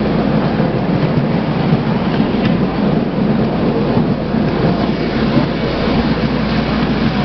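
A miniature railway train running, heard from a passenger carriage: a steady, loud rumble of the wheels on the track.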